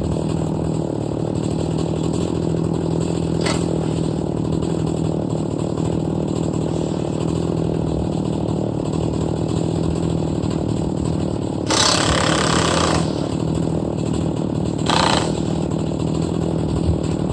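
Large-displacement chainsaw running at a steady engine note while milling oak lengthwise. Short bursts of hiss come through about twelve seconds in and again around fifteen seconds.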